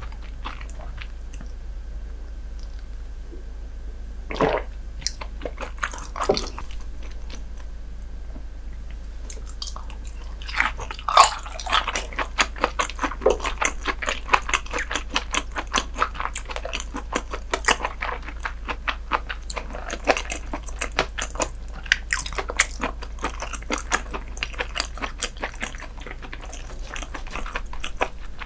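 Close-miked chewing of raw herring, wet rapid clicking mouth sounds that start about ten seconds in and continue densely; before that, only a couple of isolated soft sounds.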